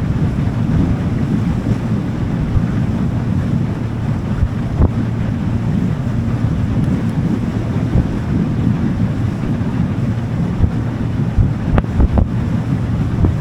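Wind buffeting the microphone on a small motorboat under way, over the steady low rumble of the boat and the water. A few short knocks come about five seconds in and again near the end.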